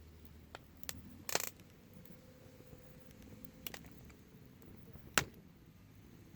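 A few light metallic clinks and sharp clicks, spaced a second or two apart, with a short rattle of clinks about a second in.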